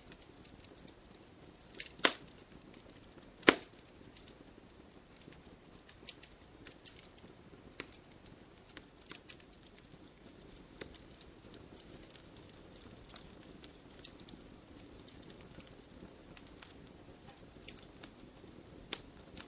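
Campfire burning: wood crackling with scattered small pops over a low steady hiss, and two loud snaps about two and three and a half seconds in.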